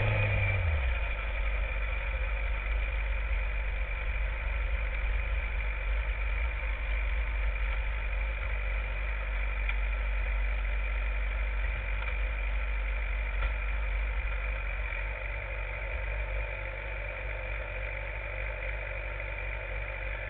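Sport motorcycle engine winding down in pitch as the bike slows to a stop in the first second, then idling steadily.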